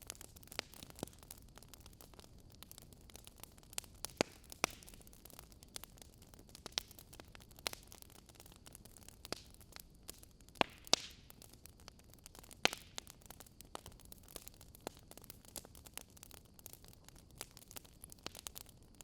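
Burning wood logs crackling: irregular sharp pops and snaps over a low steady hiss, with a handful of louder pops scattered through.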